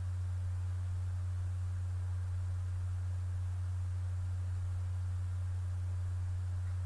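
Steady low electrical hum, a single unchanging tone near 100 Hz, with faint background hiss.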